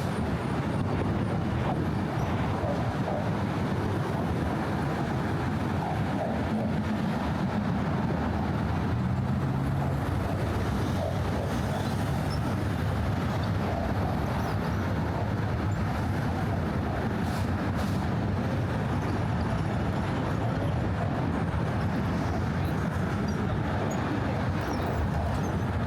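Steady traffic noise from cars and trucks running across the Brooklyn Bridge roadway, an even rumble with no single vehicle standing out.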